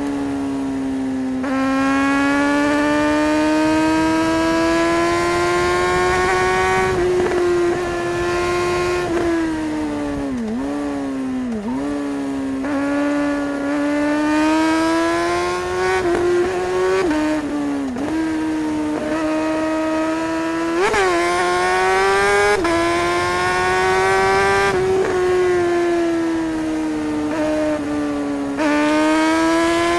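Suzuki GSR 600's inline-four engine running hard under way, its pitch climbing in long pulls and dropping back at each gear change. There are a couple of quick dips in pitch around the middle and a sharp rev a little after.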